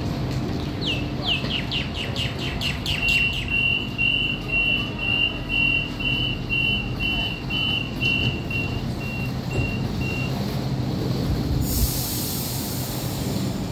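Sydney Trains M set double-deck electric train standing at the platform with a steady low hum. Over it a series of high chirps, falling in pitch and quickening, turns into an evenly repeated high beep that fades away about ten seconds in. Near the end comes a sudden burst of air hiss as the doors close.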